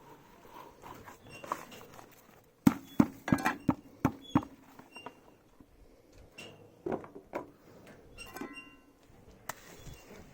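A quick cluster of sharp knocks and thuds about three seconds in, then scattered single knocks and clicks, typical of hand work on building materials.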